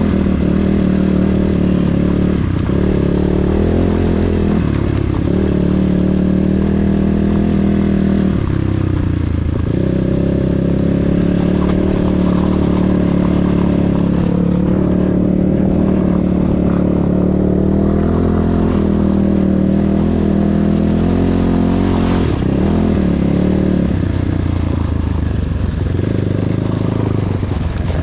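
Enduro motorcycle engine running under way with a steady note, dipping briefly in pitch several times as the throttle is eased off and opened again.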